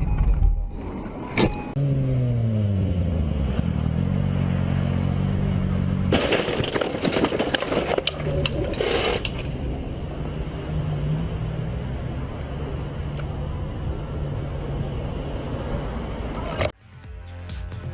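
Car engine running, its pitch falling, then holding steady, with a stretch of loud rushing noise for about three seconds in the middle. The sound cuts off abruptly near the end.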